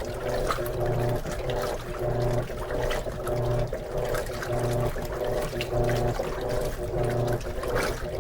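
Electrolux LM13Q top-load washing machine agitating its rinse water: the motor hum switches back and forth about once a second as the agitator reverses, over the sloshing of water and clothes.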